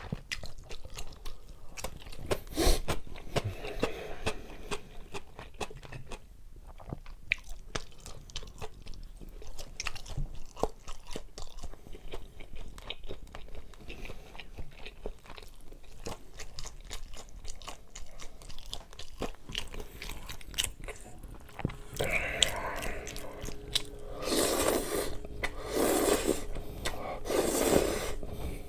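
Close-up chewing and biting of crunchy food, with many short sharp crunches and clicks. Near the end come several louder noisy bursts about a second apart.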